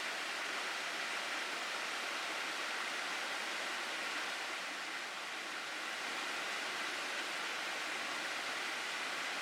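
Mountain stream water rushing through a rocky gorge, a steady, even rush with no change.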